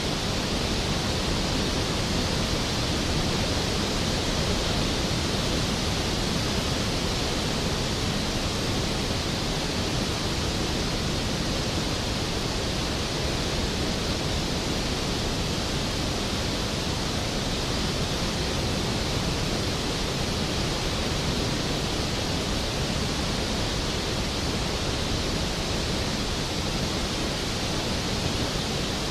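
Skógafoss waterfall's falling water, a powerful, steady rushing roar with no breaks.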